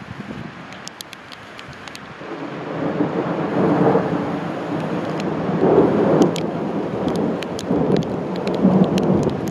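Thunder rolling over steady rain: a low rumble builds about two seconds in and rumbles on in swelling waves, loudest around the middle and again near the end. Raindrops tick on a nearby surface throughout.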